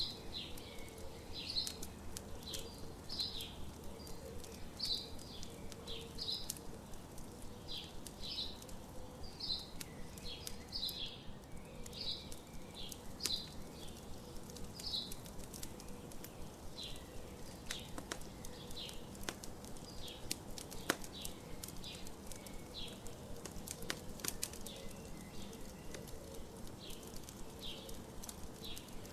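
Morning birds chirping, one short high note repeated over and over about once or twice a second, over the scattered sharp pops of a crackling campfire.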